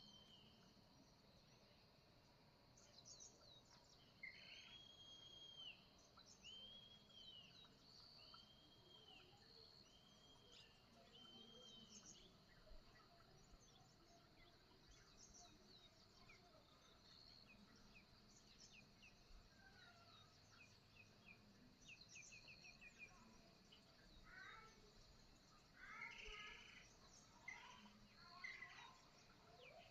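Faint birdsong from several birds: one bird repeats a short rising-and-falling whistled note about five times, evenly spaced, while others add quick high chirps, with a louder burst of calling near the end.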